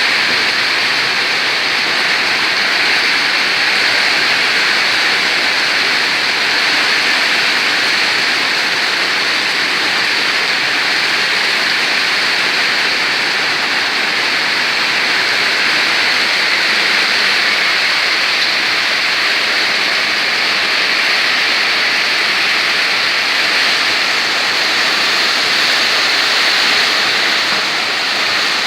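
Heavy rain pouring down in a windstorm, a loud, steady hiss.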